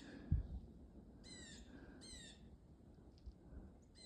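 A small bird giving short, high, raspy calls, three of them spaced about a second apart, over quiet outdoor background. A brief low thump about a third of a second in is the loudest sound.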